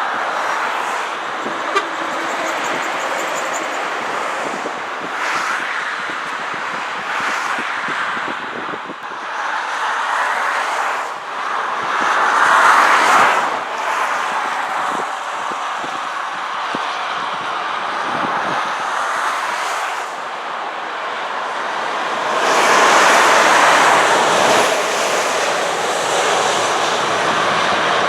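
Motorway traffic rushing past, mostly tyre and road noise, swelling loudest as vehicles pass about twelve seconds in and again about twenty-three seconds in.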